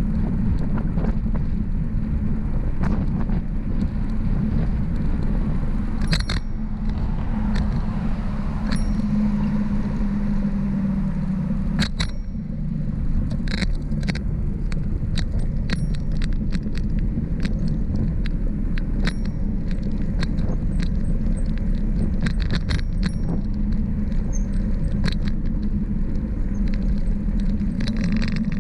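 Steady low rumble of wind and road noise on a bicycle-mounted microphone while riding, broken by frequent sharp clicks and rattles from the bike jolting over the road surface.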